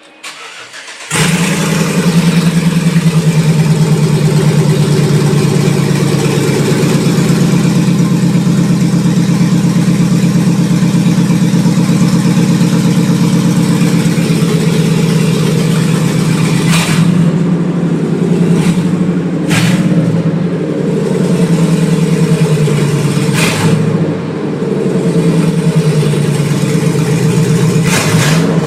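A 2004 Chevy Silverado's 4.8L Vortec V8 is cranked and catches about a second in, then idles loud and throbbing with the exhaust open at the headers: no catalytic converters, no mufflers. A few brief sharp cracks come through in the second half.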